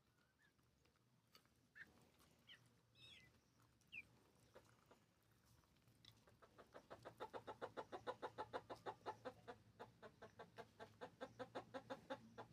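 A hen clucking in a fast, even run of about five or six clucks a second, starting about six seconds in. Before that there are only a few faint short high calls and ticks.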